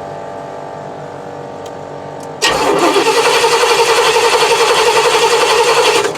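Starter cranking the 1976 GMC motorhome's Oldsmobile 455 V8 for about three and a half seconds, starting about two and a half seconds in, with an even rhythmic pulsing, then cut off. This is the cranking for a compression test on the last cylinder, which reads 120 psi. A steady hum comes before it.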